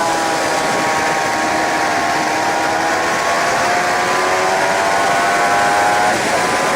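Suzuki GSX-R 750 K7's inline-four engine pulling hard, its pitch rising steadily as the bike accelerates, with a brief break about six seconds in before it picks up again. Heavy wind rush over the on-bike camera microphone runs underneath.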